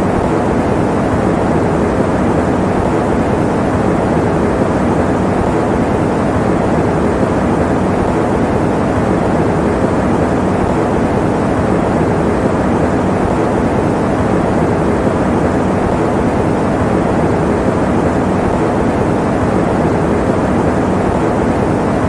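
Electric fan running steadily: an even, unchanging rushing noise, deep and full with little hiss.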